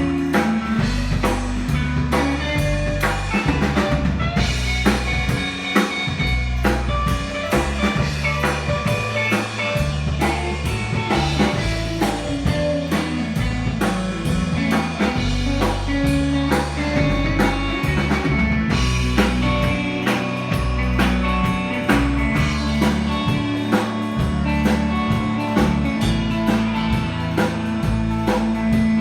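A rock band playing an instrumental passage: electric guitar over bass and a steady drum-kit beat.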